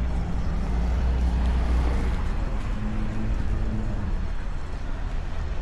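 Low, steady rumble of vehicle engines idling, with faint voices in the background.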